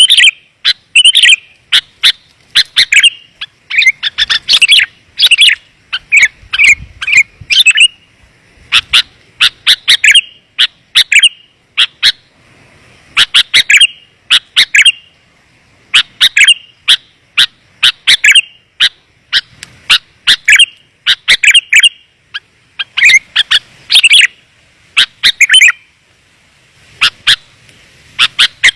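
Sooty-headed bulbul (kutilang) calling: loud clusters of quick, sharp chirps, one after another with short gaps. It is a lure call (suara pikat), played to attract wild bulbuls.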